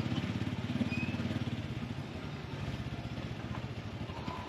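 Small motorcycle engine running steadily under way, its even firing pulse carrying through, heard from the passenger sidecar of a motorcycle tricycle.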